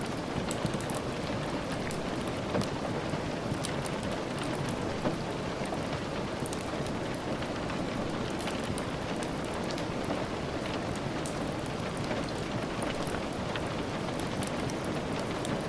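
Steady, continuous rain falling, a dense even hiss with scattered sharp ticks of individual drops or crackles.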